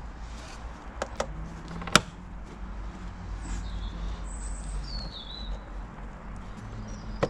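A few sharp clicks, the loudest about two seconds in, as the positive battery terminal clamp is fitted and tightened. Birds chirp in the background.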